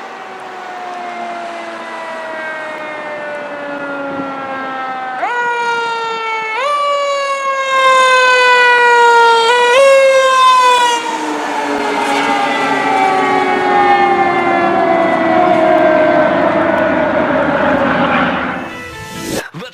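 Fire engine siren wailing: a slowly falling tone that jumps back up and slides down about four times, loudest in the middle, then keeps falling as the engine moves away. The sound cuts off sharply near the end.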